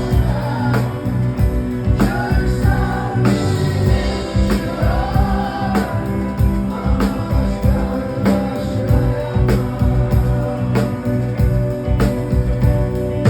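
Live rock band playing, with drums keeping a steady beat and a held, wordless vocal line in the first half.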